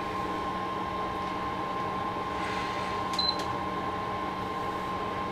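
Induction hob running under a pan of heating cooking fat: a steady hum with a constant whine. About three seconds in come a couple of clicks and a very short high beep.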